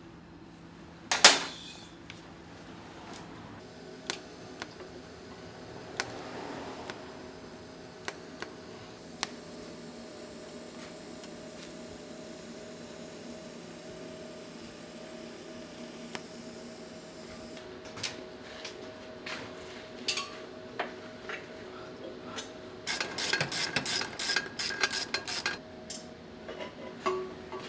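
Metal parts and tools being handled and set down in a fabrication workshop: a loud metal clank about a second in, scattered light knocks, then a quick run of clattering and rattling near the end, over a steady low hum.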